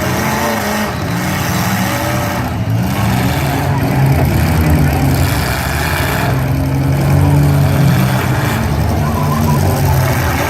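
Several demolition derby car engines running and revving together, their pitch rising and falling.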